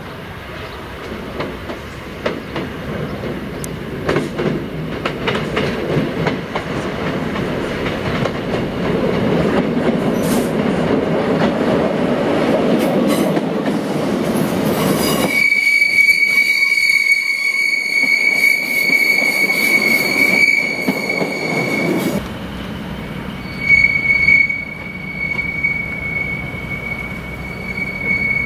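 Diesel multiple-unit passenger train approaching and passing close by, its rumble and wheel clatter growing louder. About halfway through the rumble cuts out abruptly and a steady high-pitched wheel squeal takes over, the wheel flanges squealing on the curved track into the station. The squeal breaks off briefly and returns near the end, with the rumble under it again.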